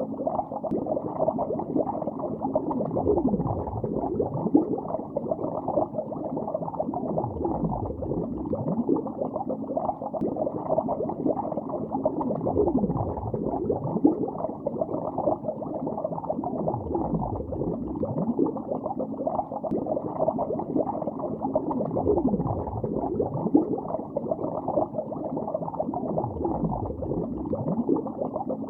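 Underwater bubbling heard through the water: a steady, dense stream of gurgling bubbles, each giving a short rising pitch, with low swells every few seconds.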